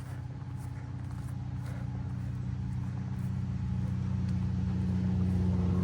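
A motor engine's low hum growing steadily louder as it approaches, with faint footsteps along the trail.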